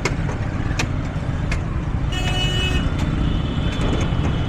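Road traffic heard while riding, with a steady low rumble of engine and wind noise. A vehicle horn honks once for under a second, about two seconds in.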